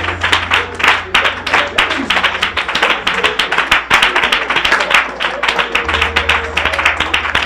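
Congregation clapping in a steady rhythm, several claps a second, over music with a low held bass note that drops out midway and returns near the end.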